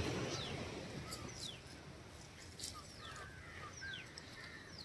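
A bird calling over and over, a short high note falling in pitch about once a second, with fainter chirps lower down. A faint steady hiss lies underneath, with a couple of brief clicks.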